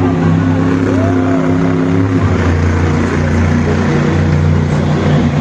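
Monster truck engine running steadily at a low, even pitch, the note shifting slightly about two seconds in.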